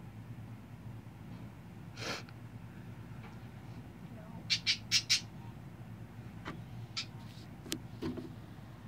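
Pet bird squawking: four quick, loud calls about halfway through, with a few fainter single chirps before and after.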